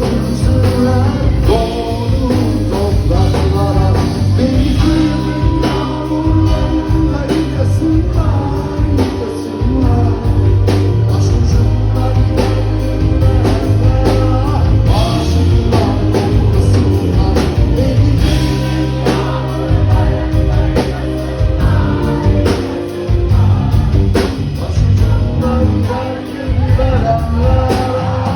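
Live band performing a song with a singer, over a strong bass and a steady drum beat.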